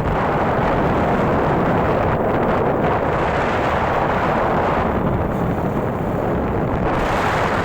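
Wind buffeting the microphone of a moving motorbike: a steady, loud rushing noise.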